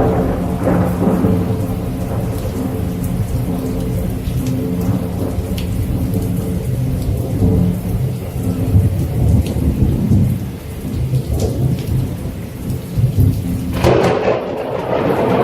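Low rolling thunder rumbling over steady rain. Near the end it switches abruptly to a brighter, hissing wash of rain.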